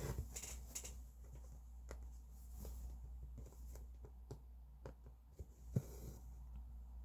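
Cross-stitching by hand: a needle tapping and poking through stiff cross-stitch fabric and thread drawn through it, heard as scattered small clicks and short soft swishes, with one sharper knock near the end.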